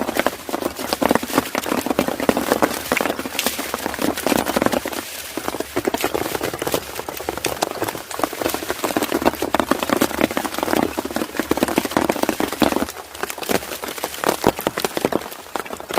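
Heavy rain falling, a dense steady patter of drops.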